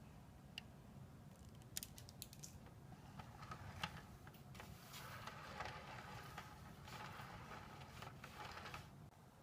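Faint scattered clicks and light handling rustle over quiet room tone, a little louder in the middle stretch.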